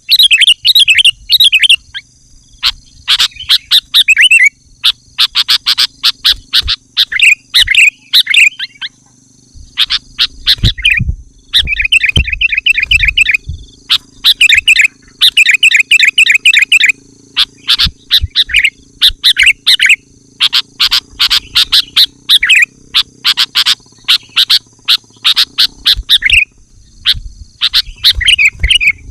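Sooty-headed bulbul (kutilang) singing loudly and nonstop: quick phrases of bubbly chirping notes, each a second or two long, repeated with only short gaps between them.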